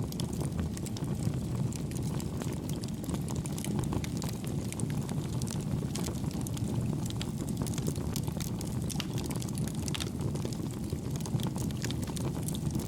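Campfire burning: a steady low rumble of flames, with frequent soft crackles and pops of burning wood.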